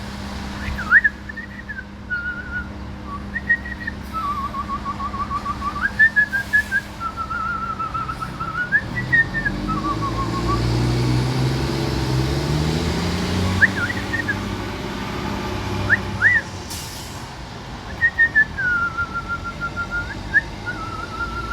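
A person whistling a tune of warbling, trilling notes that swoop up and down, with short pauses between phrases, as a call to a bird. A vehicle passes in the background partway through.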